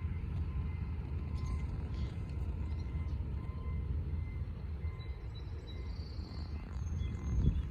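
A steady low rumble with a few faint, high, short bird chirps between about five and seven seconds in.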